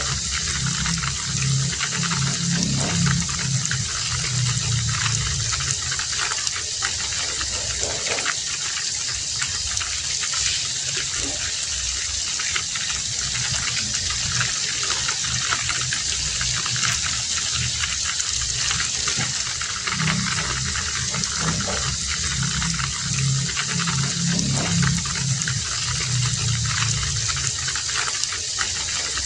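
Heavy rain falling steadily in a dense, even hiss. A low rumble swells in the first few seconds and again from about twenty seconds in.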